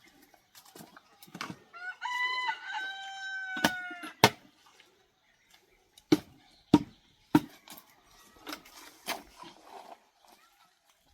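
A rooster crowing once, a drawn-out call that falls in pitch at the end, followed by several sharp knocks spread over the next few seconds.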